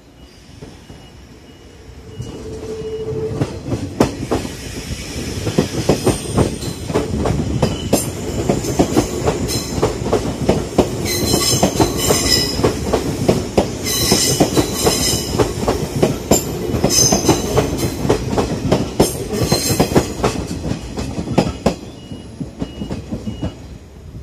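A JR 185 series electric multiple-unit train passing close by: the wheels clack over the rail joints, building from about two seconds in and loudest through the middle. Bursts of high-pitched wheel squeal come in the middle, and the sound fades near the end.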